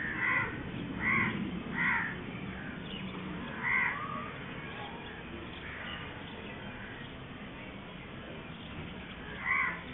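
A bird calling in short, harsh calls: three in quick succession at the start, one near four seconds and another near the end, over a steady low background noise.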